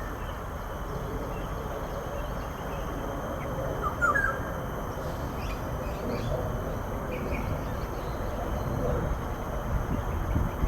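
A few short bird calls, clustered about four seconds in with fainter ones just after, over steady low background noise.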